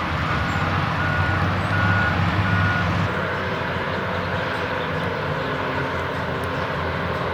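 Heavy earthmoving dirt scrapers running with a steady diesel drone. A reversing alarm beeps about every 0.7 s and stops about three seconds in.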